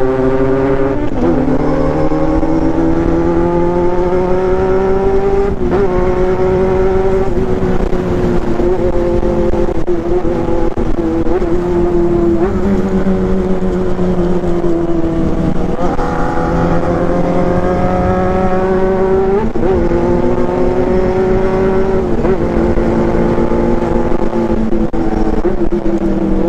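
Four-cylinder motorcycle engine of a 1995 Honda CB400 running hard at high revs, its pitch climbing slowly and dipping briefly at each gear change, about six times.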